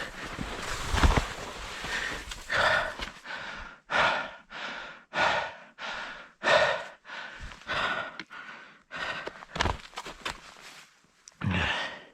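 A skier's heavy breathing, a steady run of hard breaths about one and a half a second, out of breath from the descent.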